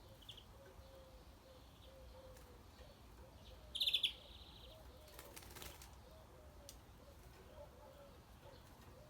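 Birds: a faint short chirp near the start, then one loud, sharp call about four seconds in, followed by a brief flutter of wings.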